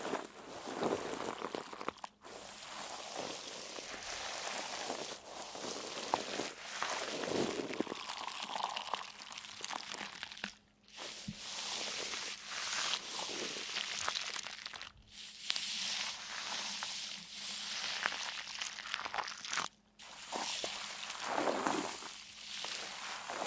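Crunching and crinkling noise going on in stretches of a few seconds, broken by brief pauses.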